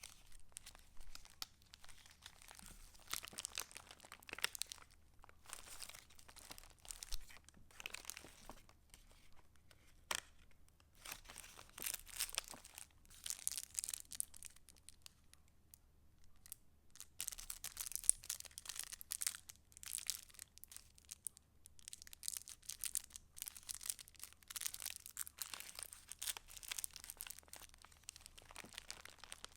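Paper of a handmade junk journal being handled and its pages turned: crisp rustling and crinkling in irregular bursts with sharp crackles, pausing briefly about halfway through.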